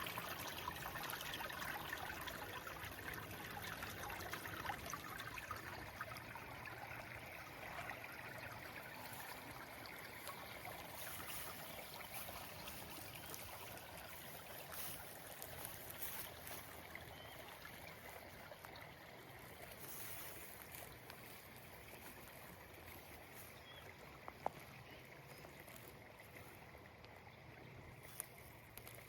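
Water trickling and splashing while trees are watered, growing gradually fainter. There is one sharp click about three-quarters of the way through.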